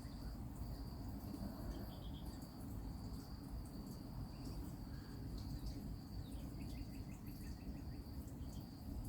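An insect trills steadily at one high pitch, with brief breaks, over a low rumble of outdoor background noise; about seven seconds in there is a short run of quick, higher chirps.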